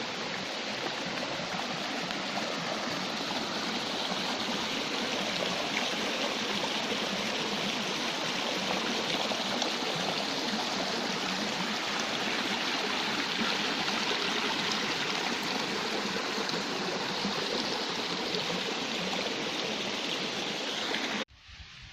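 Small waterfall on a valley stream, water rushing in a steady, even wash that cuts off suddenly near the end.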